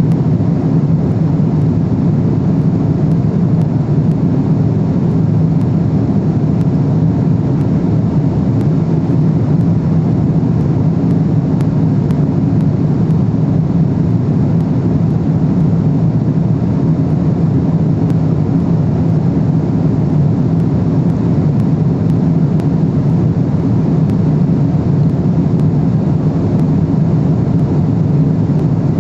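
Steady cabin noise of a Boeing 777-300ER in cruise: an even, low drone of engines and rushing air, heard from inside the cabin.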